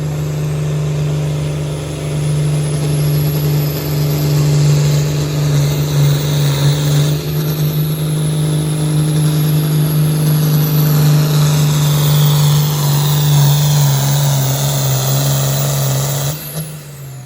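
Modified farm tractor's diesel engine under full power, pulling the sled: a loud, steady engine note with a high whine rising above it. The engine drops off suddenly about a second before the end as the pull finishes.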